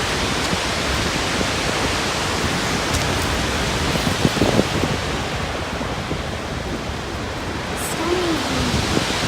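Skógafoss waterfall heard up close: a loud, steady rush of falling water that covers the whole range of pitch.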